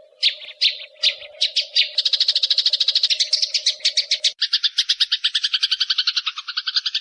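Small songbird calling: a few separate high chirps, then from about two seconds in a fast, even chatter of roughly ten notes a second that drops a little in pitch about four seconds in. A low steady hum sits under the first four seconds and stops.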